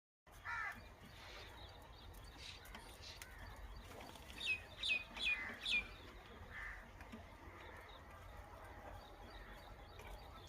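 Baby Aseel chicks peeping: short, high, falling peeps, one near the start and four in quick succession about halfway through, over a faint low hum.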